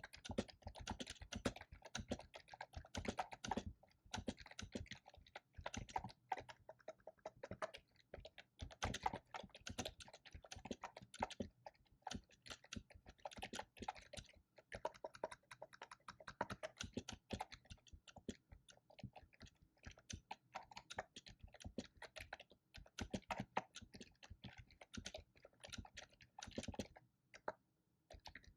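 Typing on a computer keyboard: a quick, irregular run of key clicks that stops briefly now and then between bursts.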